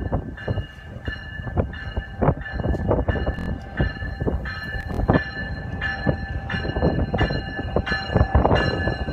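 Electric commuter train pulling into the station alongside the platform: a steady rumble of wheels on rail with frequent sharp clacks, and a few steady high-pitched tones running over it.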